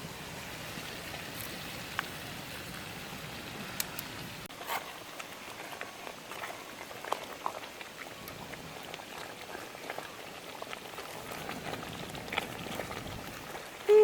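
Food cooking over a wood fire: a steady sizzling hiss with scattered small pops and crackles.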